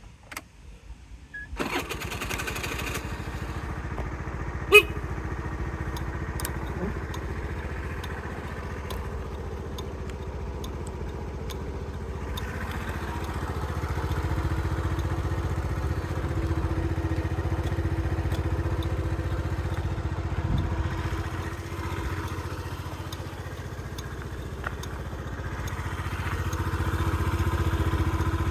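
Honda Today AF61 scooter's 50cc four-stroke single-cylinder engine being started. It is cranked briefly, catches about a second and a half in, then idles steadily, with one sharp click about five seconds in and the engine note picking up slightly near the end.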